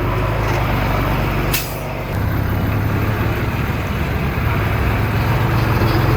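Heavy diesel engine running steadily, with one short, sharp hiss about one and a half seconds in.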